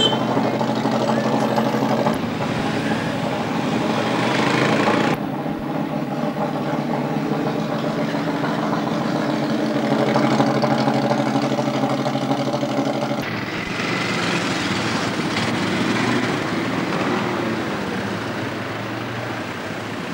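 Racing car engines running at idle, a steady engine drone that changes abruptly to a different engine about 2, 5 and 13 seconds in.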